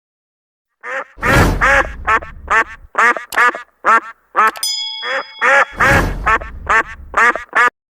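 Ducks quacking: a long run of short, hoarse quacks, one after another, with a brief metallic ring about halfway through.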